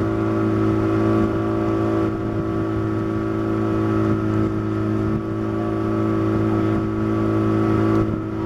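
A boat's engine running steadily at an even pitch.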